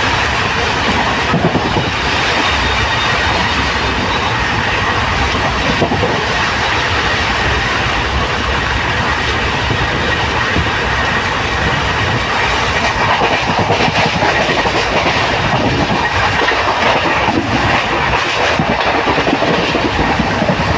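Passenger train running along the track: a steady loud rumble and rush, with the clickety-clack of wheels over rail joints and a few sharp knocks.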